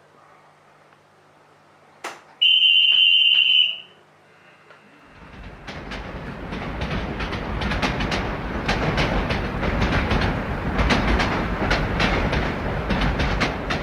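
Model train departing: a click and a short high whistle tone about two seconds in, then from about five seconds the rumble and rapid rail-joint clicking of the model train running on its track, growing louder.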